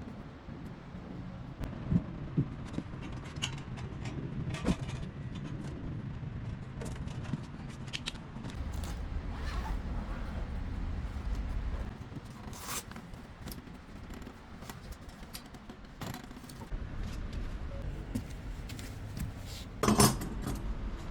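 Scattered clinks, taps and scrapes of small metal objects being handled, with a louder clatter near the end.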